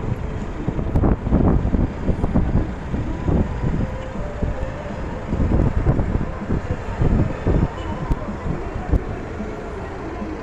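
Wind buffeting the microphone in irregular gusts, over a steady outdoor background hum.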